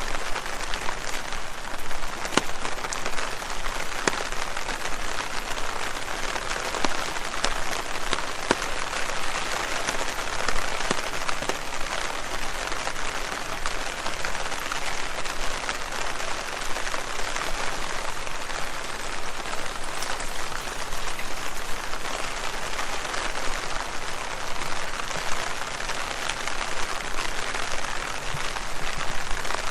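Steady rain falling on leaves: a dense, even patter with many distinct drops tapping through it.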